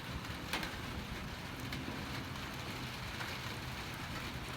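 Steady rain falling, with a few sharp drops striking a surface, the loudest about half a second in.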